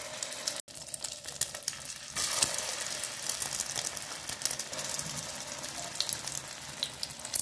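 Egg-dipped shami kababs sizzling and crackling in a shallow layer of oil in a nonstick frying pan. The sizzle gets louder about two seconds in.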